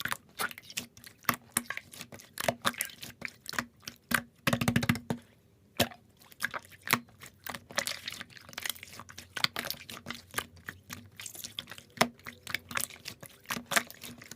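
Slime being squished and pressed by hand: an irregular string of sticky clicks and small pops, with a fast crackling run of pops about four and a half seconds in.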